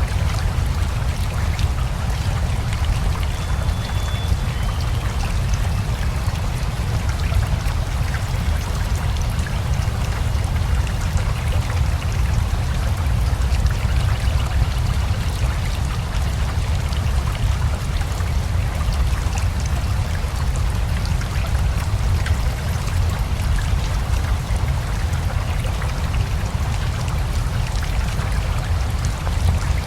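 Steady rain together with a flowing river: a continuous, even rush of water with a deep low rumble underneath and fine patter on top.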